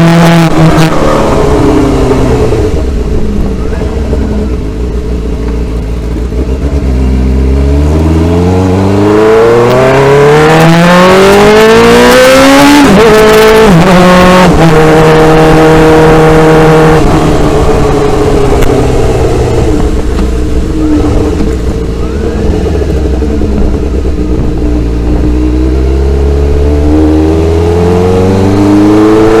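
Motorcycle engine heard from on the bike: the revs fall, then climb as it accelerates, with two quick gear changes about halfway through. It holds a steady speed for a few seconds, slows, then picks up speed again near the end.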